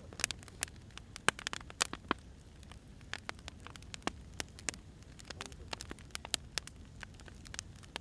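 Burning firewood logs crackling: irregular sharp pops and snaps, several a second, over a low steady rumble.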